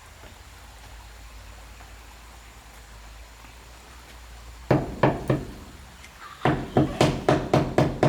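Blows on wood: three sharp knocks, then after a short pause a fast, even run of strikes about four a second.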